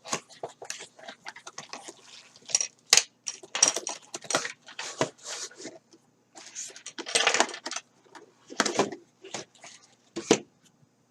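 A product box and its packaging being opened and handled by hand: an irregular run of clicks, scrapes and rustles, with louder bursts about a third of the way in and again past the middle.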